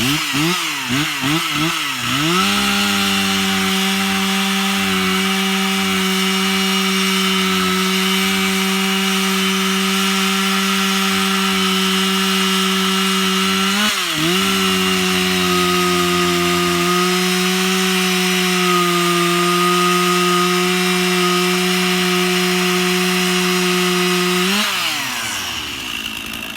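Stihl 046 two-stroke chainsaw blipped a few times, then held at full throttle as it cuts through a log of dense, seasoned oak, its pitch dipping briefly about halfway through the cut. Near the end it drops back to idle. The chain is freshly sharpened on an electric grinder.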